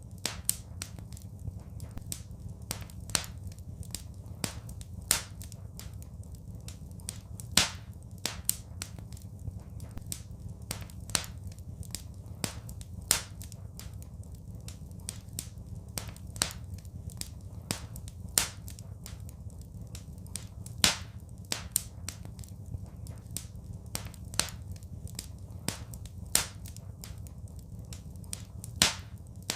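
Wood fire crackling in a fireplace: irregular sharp pops and snaps, every second or two a louder one, over a steady low rumble of the burning.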